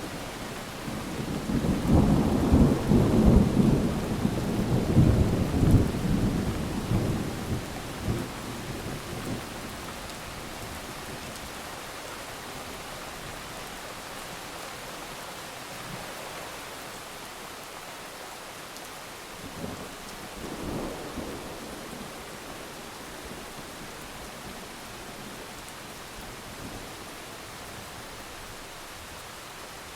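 Rain falling steadily, with a long rolling rumble of thunder that starts about a second in and dies away by about nine seconds. A shorter, fainter thunder rumble comes about twenty seconds in.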